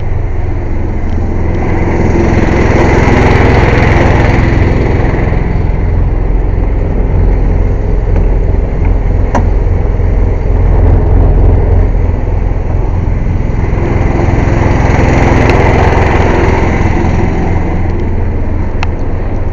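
Engine-driven air compressor running loudly and steadily, swelling louder twice. A single sharp click sounds about nine seconds in.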